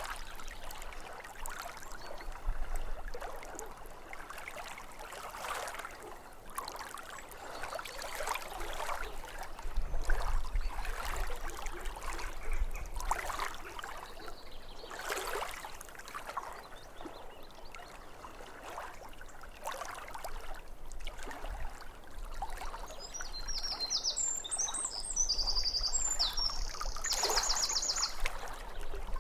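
Small waves lapping at a lake shore in irregular washes. Near the end a bird sings a short run of high chirps followed by a quick trill.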